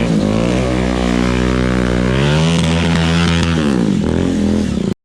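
Motorcycle engine revving: the pitch climbs about two seconds in, holds, drops back, then rises again before cutting off abruptly near the end.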